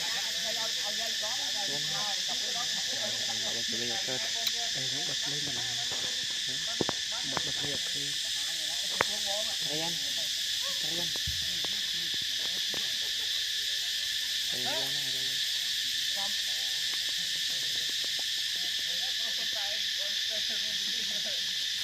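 Steady high chorus of insects such as crickets, with many short wavering calls lower down and a few sharp clicks about seven to nine seconds in.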